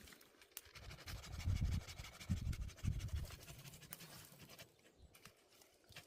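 Hand saw being worked back and forth through a cut in repeated strokes, dying down near the end.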